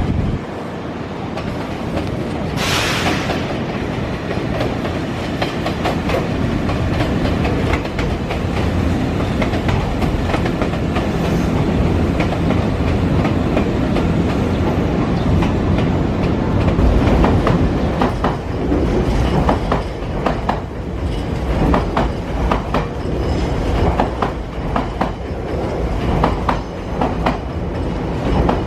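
Nankai electric commuter train running along the track with a steady rumble and wheels clicking over rail joints, the clicks coming more often in the second half. A brief hiss sounds about three seconds in.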